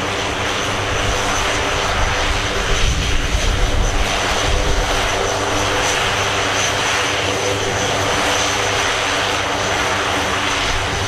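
Military helicopters running steadily overhead: a continuous engine and rotor noise with a high turbine whine over a low rumble.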